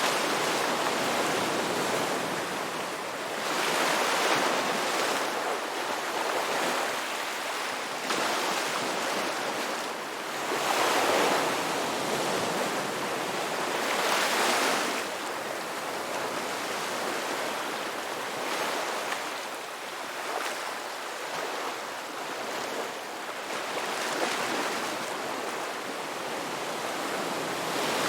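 Ocean waves breaking and washing in, a steady rush of surf that swells every few seconds.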